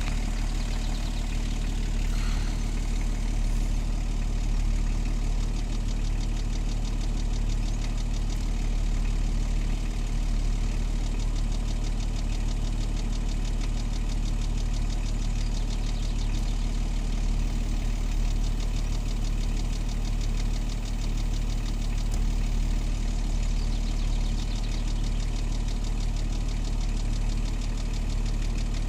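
BMW E34 525tds 2.5-litre straight-six turbodiesel idling steadily, with a fast, even ticking over the engine note: a noise the owner cannot identify.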